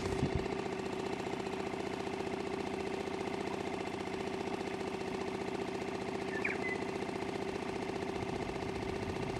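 Boat engine running steadily at a constant speed, with a fast, even pulsing beat.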